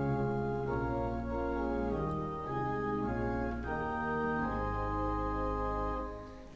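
Organ playing a hymn introduction in sustained chords that change every second or two, dying away just before the end.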